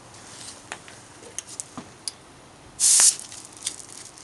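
A short, sharp blast of hiss from compressed air with a straw nozzle, set off once about three seconds in; the blast shot the straw off the nozzle.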